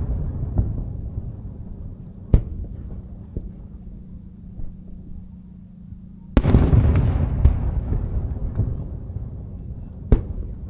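Aerial fireworks shells bursting overhead. A sharp bang comes about two seconds in, a big boom about six seconds in is followed by a long rolling rumble and crackle that fades away, and another sharp bang comes near the end, with smaller pops in between.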